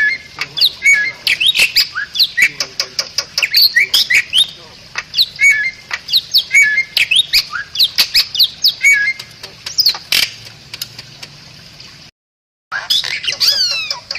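Bali myna singing: a fast, loud string of sharp clicks, short whistles and squawky chatter, broken by a brief dead silence about twelve seconds in where the recording is spliced.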